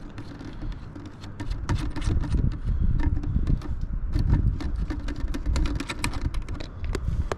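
Hands working a cable connector loose, a rapid string of small clicks and knocks over a low, uneven rumble, getting busier about a second and a half in.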